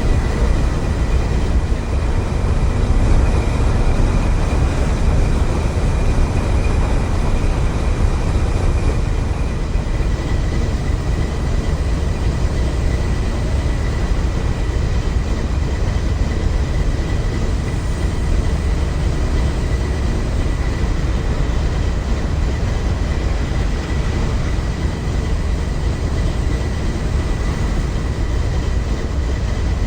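A train rolling past with a steady, loud rumble and a faint, steady high-pitched tone over it.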